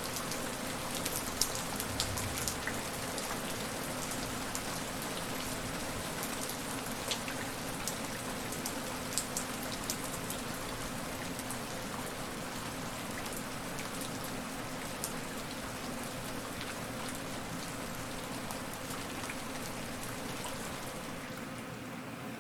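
Steady rain falling on a surface: an even hiss with scattered sharp drop hits, which thin out after the first half. Near the end the brightest part of the hiss falls away.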